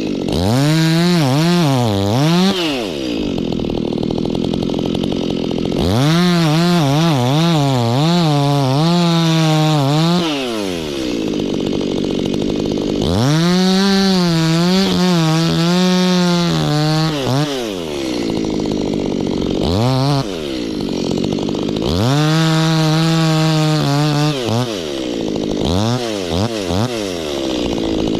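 Two-stroke chainsaw cutting wood, run up to full throttle in about five separate bursts. The pitch wavers and sags under load in each burst, and the saw drops back toward idle between them.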